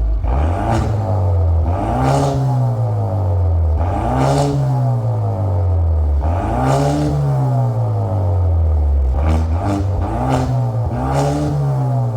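Kia Stinger 2.0 turbo four-cylinder revved repeatedly through a custom electronic valved exhaust. About six blips each climb in pitch and fall back toward idle.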